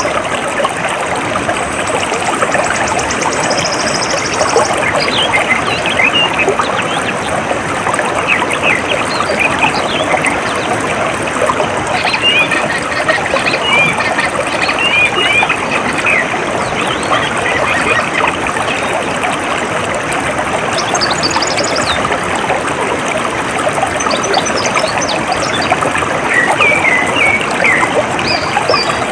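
Water trickling and flowing steadily, like a shallow stream, with small birds chirping now and then over it. A high, rapid trill sounds for the first few seconds and again briefly past the middle.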